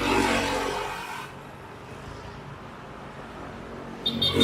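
A motor vehicle passing close by on the road, swelling and fading within the first second or so, then steady traffic noise, with another loud vehicle coming up near the end.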